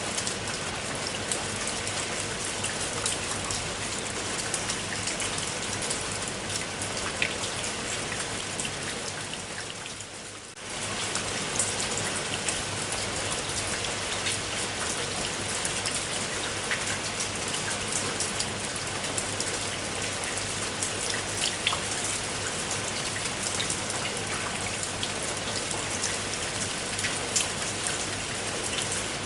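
Steady rain falling, with many separate drop hits heard through it. About ten seconds in it briefly fades down and then comes straight back up.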